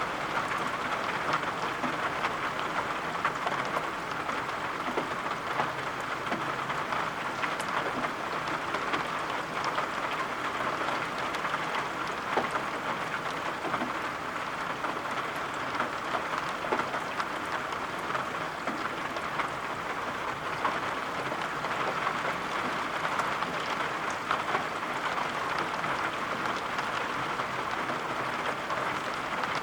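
Steady rain falling: an even patter with many small drop ticks.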